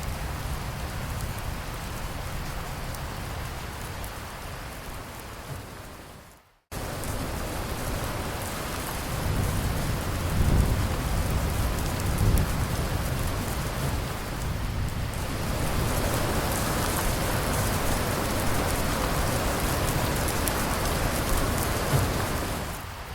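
Steady rain falling, with thunder rumbling low for a few seconds about halfway through. The rain fades out and cuts back in abruptly just before the seven-second mark, and grows louder and brighter in the later part.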